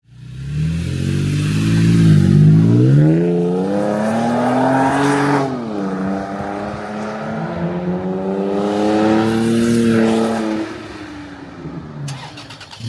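Toyota Tacoma 3.5L V6 running through a T304 stainless side-exit cat-back exhaust with a hi-flow muffler, under acceleration. The exhaust note climbs in pitch, drops sharply about five and a half seconds in, climbs again more slowly, then falls away near eleven seconds.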